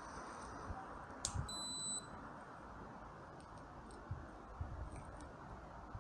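A single high electronic beep lasting about half a second, just after a short click, over steady background noise.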